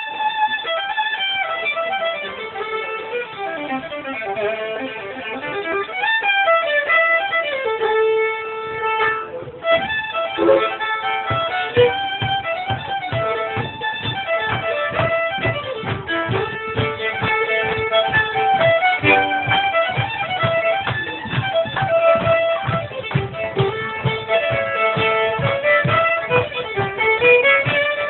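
Fiddle playing a lively old-time mountain tune, the melody running continuously. A steady low beat joins in about ten seconds in.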